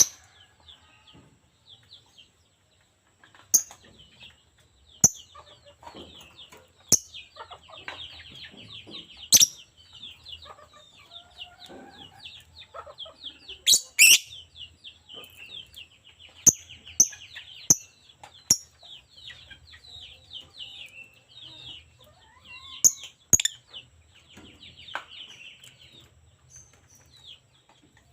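Lovebird chattering in a fast run of high chirps and twitters, broken at irregular intervals by loud, sharp, shrill calls.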